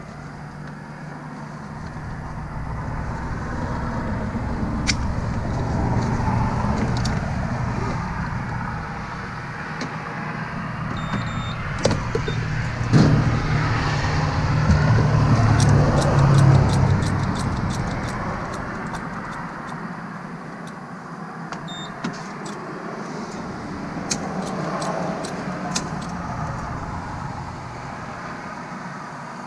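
A car engine running close by, swelling louder through the middle and then easing off. A few short high beeps and scattered clicks sound over it.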